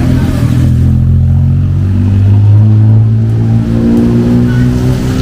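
A motor vehicle's engine running close by, a low steady hum that rises a little in pitch in the last couple of seconds.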